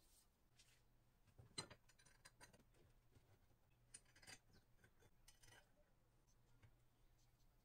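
Near silence with a few faint clicks and clinks, the loudest about one and a half seconds in, over a faint low hum.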